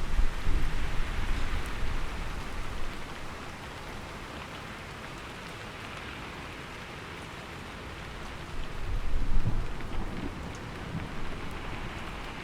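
Steady heavy rain with thunder: a low rumble fading away over the first few seconds, then a second roll of thunder swelling and dying away about nine seconds in.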